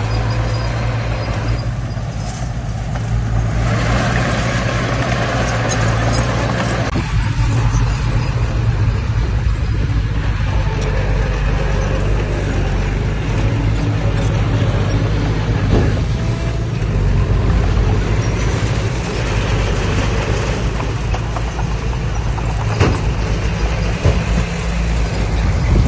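Heavy diesel earthmoving machinery running steadily under load, with a few sharp metallic knocks.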